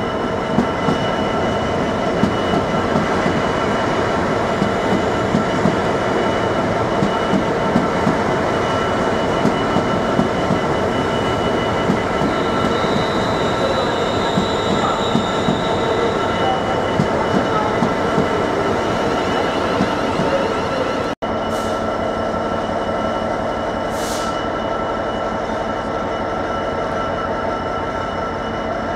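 A Class 350 electric multiple unit passes through the station with rhythmic wheel clicks over rail joints and a thin squeal near the middle, over the steady running of a Class 66 diesel locomotive. About 21 seconds in the sound cuts out for an instant, then a container freight train runs past with a steady low hum.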